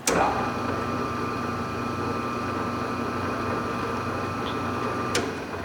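Paoloni PS 630 24-inch planer running, put into its second speed: a steady machine hum with a high whine that comes in suddenly at the start. About five seconds in there is a click and the whine cuts off.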